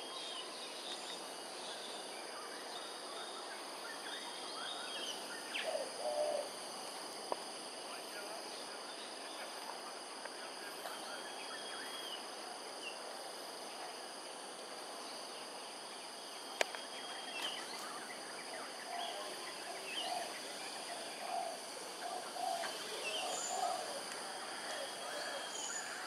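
Outdoor ambience: a steady background hiss with scattered short calls from birds, and a few lower calls around a quarter of the way in and again in the last few seconds. Two sharp clicks, the louder about two-thirds of the way through.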